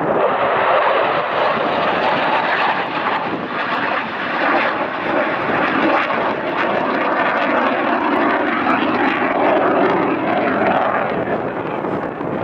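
F-16 fighter jet flying past, its single turbofan engine giving loud, steady jet noise, with a slow shift in pitch in its lower tones.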